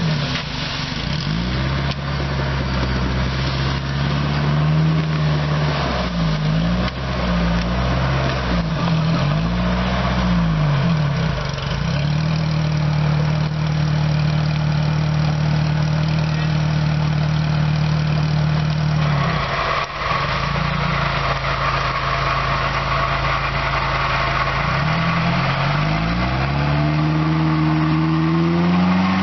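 Engine of an off-road 4x4 working through a muddy gully, revved up and down again and again. It holds steady revs for several seconds in the middle and climbs again near the end. A rough hissing noise joins about two-thirds of the way in.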